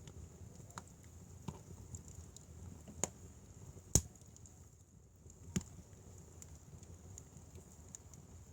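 Firewood fire crackling: irregular sharp pops, a few seconds apart, the loudest about four seconds in, over a low steady rumble.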